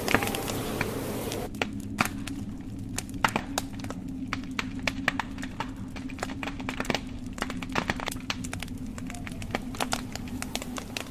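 Wood fire crackling in a fireplace, with many irregular sharp pops and snaps over a steady low rumble. For about the first second and a half, a hiss of blizzard wind sits over the crackle, then cuts off suddenly.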